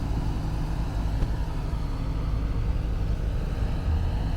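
Steady low rumble of a 1998 Chevy C1500 pickup's 5.7-litre V8 idling.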